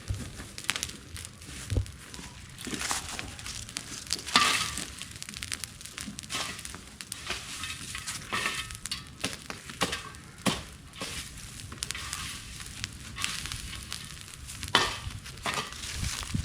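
Dry cleared bushes and branches burning, crackling with irregular sharp pops over a steady hiss. The loudest pops come about four seconds in and near the end.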